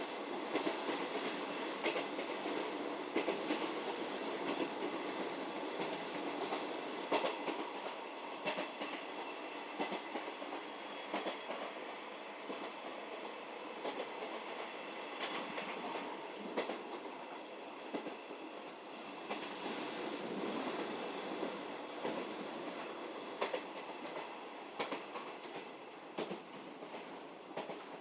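711-series electric multiple unit heard from inside the passenger car while running: a steady rumble of the train in motion, with sharp wheel clacks over rail joints at irregular intervals.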